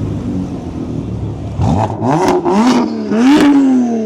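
Car engine running steadily, then revved hard about four times in quick succession from about a second and a half in, each rev rising and falling, the last one longest. Sharp exhaust pops crack at the peaks of the revs.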